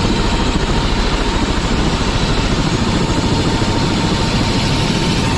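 Helicopter running: loud, steady engine and rotor noise with a fine rapid throb and a thin steady whine above it.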